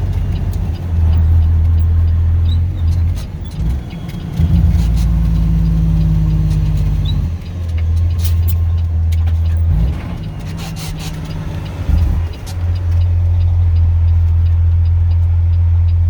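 Steady low drone of a moving vehicle's engine and road noise. The hum shifts in pitch and loudness several times, with a few faint clicks.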